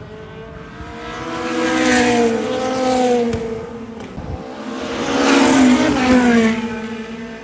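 Le Mans Hypercar prototypes passing at racing speed: two loud pass-bys about three and a half seconds apart. Each engine note swells and then drops in pitch as the car goes by.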